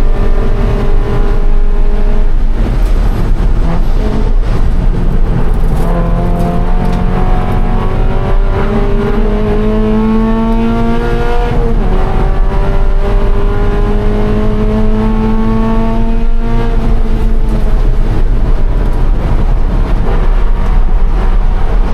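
2013 Scion FR-S's 2.0-litre flat-four engine at race pace, climbing steadily through the revs under full throttle. About 12 s in the pitch steps down with an upshift and climbs again, then falls away about 16 s in as the driver lifts, over steady tyre and wind noise.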